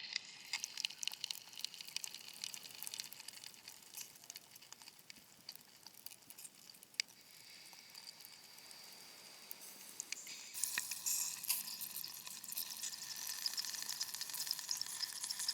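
Ambient noise track of fine crackling and hissing made of many tiny clicks, thickening into a denser, louder crackle about ten seconds in.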